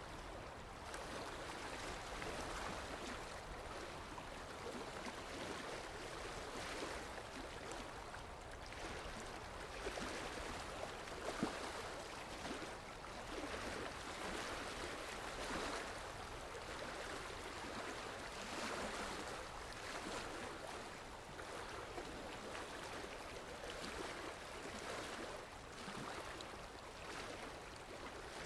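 Moving water, rushing and splashing steadily and swelling a little every few seconds.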